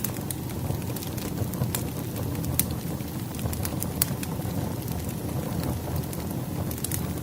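Wood fire crackling: a steady low rushing of the flames with scattered sharp pops and snaps from the burning logs.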